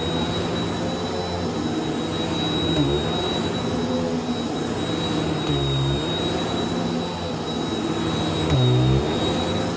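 Bissell vacuum cleaner running on a shag rug: a steady motor hum with a thin high whine, its pitch dipping briefly and recovering three times, about a third, two thirds and nine tenths of the way through.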